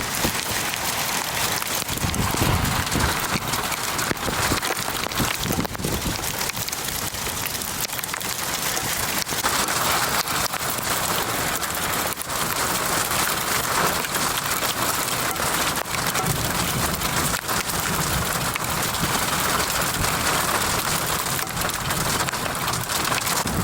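Heavy rain from a severe thunderstorm squall line, pelting down hard and steadily in a dense patter of drops. It swells a little at times with the gusting wind.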